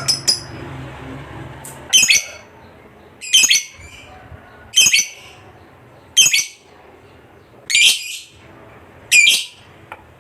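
Lovebird calling: a fast string of high notes ends just at the start, followed by six short, sharp calls, about one every second and a half.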